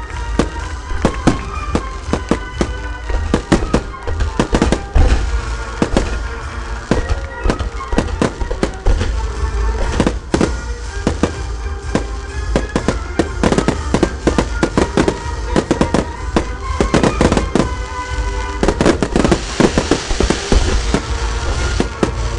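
Fireworks going off in quick, irregular bangs and crackles, over music playing with the show. Near the end a hissing of ground fountains builds up under the bangs.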